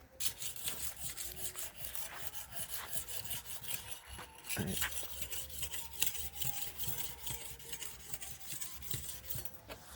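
A panga (machete) blade being sharpened on a natural sharpening stone: rapid, repeated scraping strokes of steel on stone.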